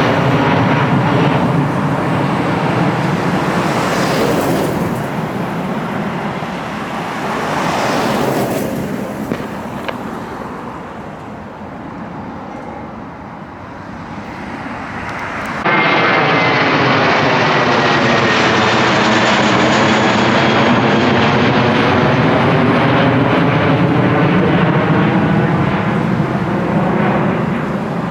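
Jet airliner engines climbing out after takeoff, the sound fading as the aircraft moves away. About sixteen seconds in, a sudden cut brings in another jet passing low overhead, loud and steady, with a sweeping phasing in its noise, which fades near the end.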